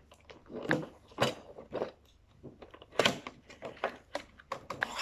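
Packaging of a toy washing machine set being torn and crinkled open by hand: irregular crackling and tearing, louder strokes about a second in and again near three seconds.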